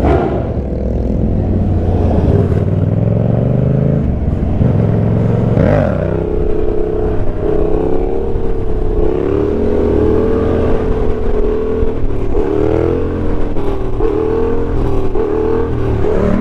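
Motorcycle engine running under way, its pitch rising and falling repeatedly as the throttle is opened and closed, with one sharp rev and drop about midway.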